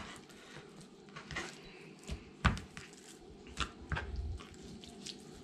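Meat being cut into cubes with a knife: a few scattered knocks of the blade, the loudest about two and a half seconds in.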